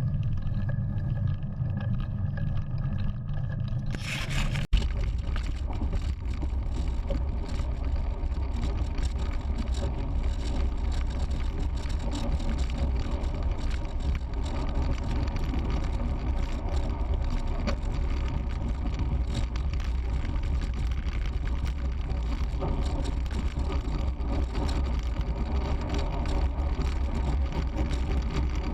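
Wind rumbling over the microphone of a bike-mounted action camera on a moving road bike, with an even rush of road noise. About four seconds in there is a sharp, brief burst and a momentary drop, after which the deep wind rumble runs steadily.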